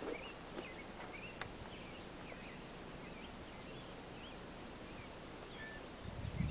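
Faint birds chirping, short up-and-down calls repeating every half second or so over a steady outdoor hiss. A brief low rumble comes near the end.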